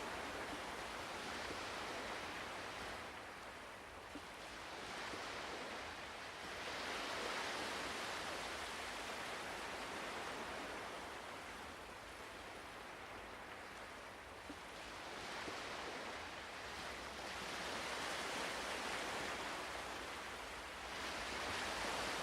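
Ocean waves washing ashore, a steady hiss of surf that swells and fades every several seconds.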